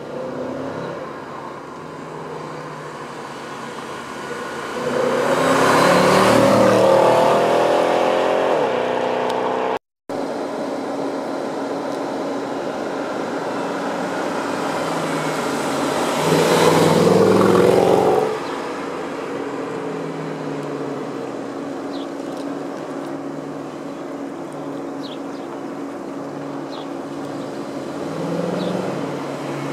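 Audi A6 4.2 FSI V8 with a custom exhaust accelerating hard twice, the engine note rising in pitch and growing much louder each time, with the engine running steadily in between.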